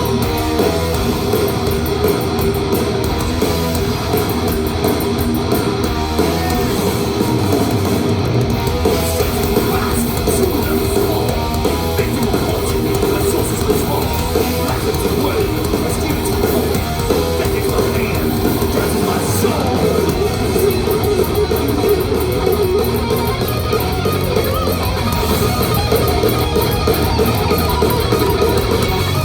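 Thrash metal band playing live at full volume: fast riffing on distorted electric guitars over bass and a drum kit.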